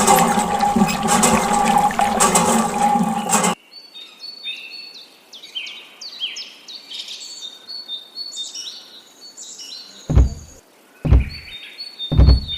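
Water running and splashing over a steady hum, cut off abruptly about three and a half seconds in. Then birds chirping, with four deep thumps near the end.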